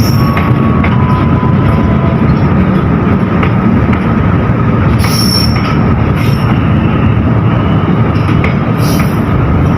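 A train running close by on the rails with a steady, loud rumble of wheels and cars. There are brief high wheel squeals about five seconds in and again near the end.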